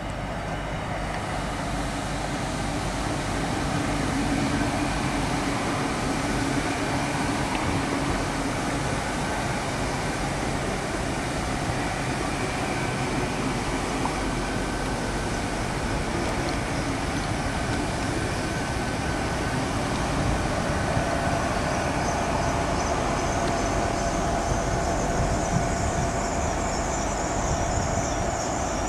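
Train running, a steady rumble with faint whining tones held over it, growing a little louder over the first few seconds and then even.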